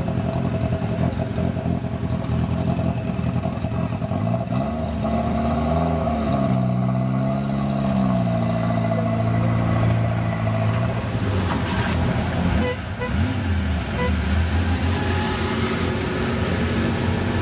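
Classic performance car engines idling, with the revs rising and held for several seconds about a third of the way in, then a short blip of the throttle later on.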